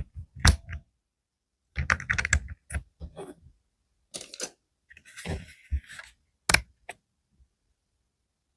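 Irregular plastic clicks and clatter from a mechanical keyboard and its switches being handled and pressed. The clicks come in short clusters with pauses and stop about seven seconds in.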